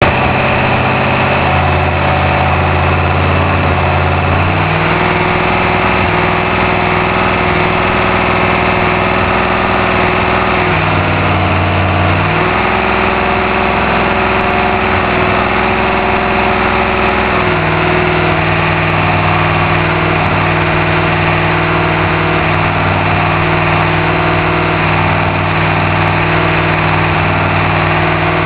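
Carburetted 347 cubic inch stroked small-block Ford V8 running on its test run. The engine speed steps up about four seconds in, dips briefly around eleven seconds, comes back up, then settles to a steadier, lower speed after about seventeen seconds.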